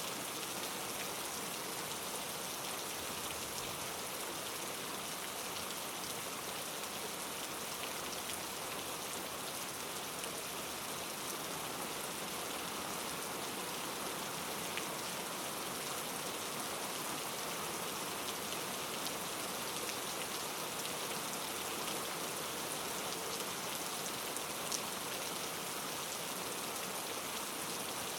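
Steady rain falling, an even hiss with scattered drop ticks and one sharper drop about 25 seconds in.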